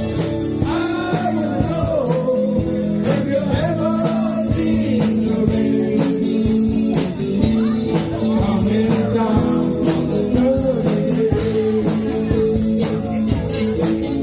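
A live band playing a rock-and-roll song, with a singing voice over guitar and a steady drum beat.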